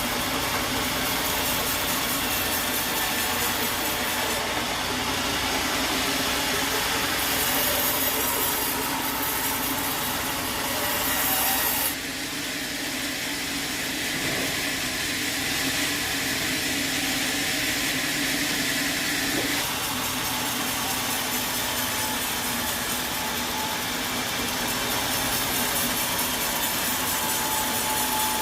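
Sawmill saw running and cutting through wood, a steady continuous sound whose tone changes about twelve seconds in and again near twenty seconds.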